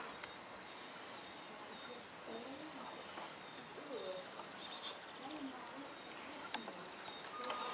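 Birds calling in the background: repeated short high chirps and lower short rising-and-falling calls over a faint outdoor hiss, with a brief rustle a little past halfway.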